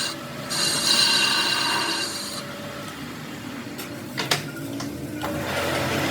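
Metalworking in a workshop on a truck's spring shackle pin: a machine whine with several steady high tones from about half a second in to two and a half seconds, a sharp click about four seconds in, then a steady noisy scraping of tool on metal near the end.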